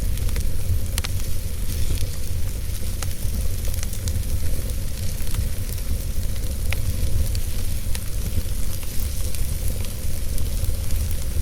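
Fire burning in a fireplace, crackling with scattered sharp pops over a steady hiss and a low rumble.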